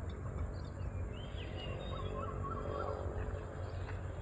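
Wild birds chirping, with a short warbling phrase in the middle, over a steady low background rumble.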